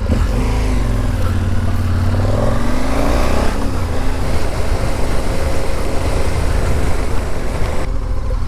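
Motorcycle engine running, its pitch rising and falling over a couple of seconds as it revs, then settling into a steady run, with a broad hiss over it that drops away near the end.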